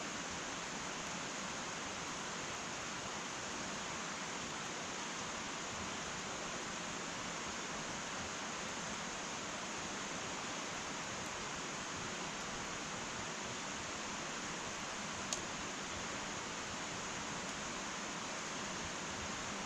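Wood fire burning in an irori hearth: a steady soft hiss, with a single sharp crackle about 15 seconds in.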